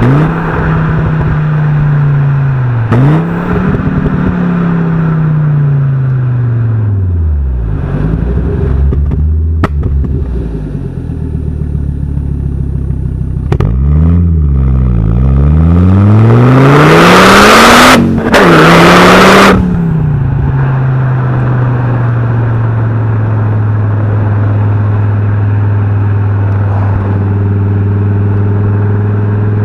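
Fiat Coupe 20V Turbo's five-cylinder engine and exhaust, with the revs rising and falling several times as the car is driven. Past the middle a loud rushing noise lasts about three seconds, then the engine settles to a steady idle for the last ten seconds.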